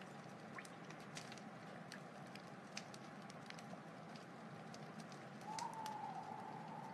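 Wood fire burning with a steady soft hiss and scattered sharp crackles and pops. About five and a half seconds in, a thin whistling tone joins, rising slightly and then holding steady for over a second; it is the loudest sound.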